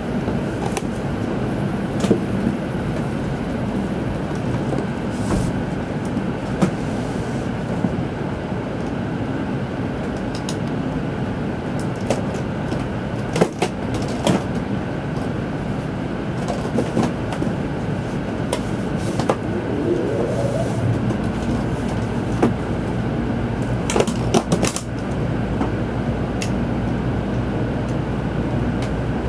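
Tokaido Shinkansen train running, heard from inside the passenger car: a steady rumble with scattered clicks and knocks, and a short rising tone about twenty seconds in.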